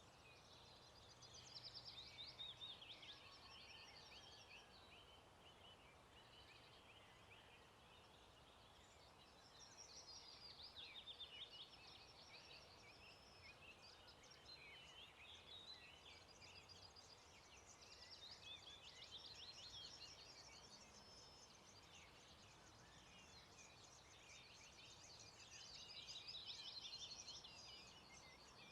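Faint songbird song: several long phrases of rapid high chirps and trills, each a few seconds long and separated by short pauses, over a quiet background hiss.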